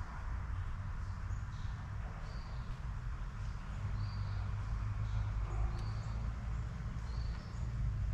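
Small birds giving short, high chirps about once a second, over a steady low rumble.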